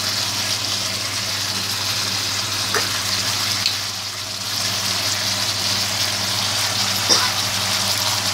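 Beef ribs and sliced chillies simmering in a frying pan with a little water, making a steady sizzle with a few brief louder crackles, the strongest near the end. A steady low hum runs underneath.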